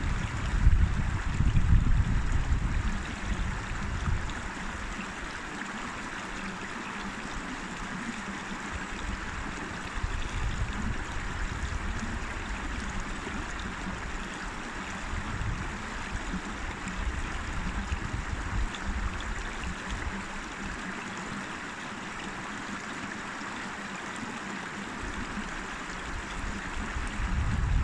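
A river or stream flowing steadily over rocks, an even rushing and babbling of water. A louder low rumble comes and goes in the first few seconds and again near the end.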